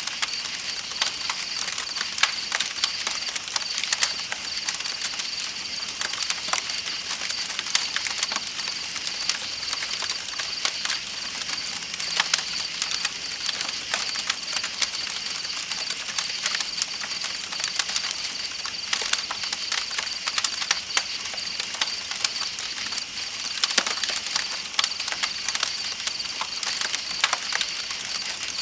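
Campfire crackling with many irregular sharp pops, over a steady high chirping of night insects and the even rush of a flowing river.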